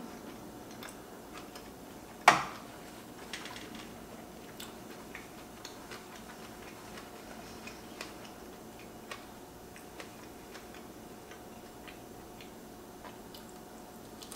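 Close-miked eating of a crisp sweet potato flatbread crust: small crunches and mouth clicks at irregular intervals, with one loud, sharp crack about two seconds in.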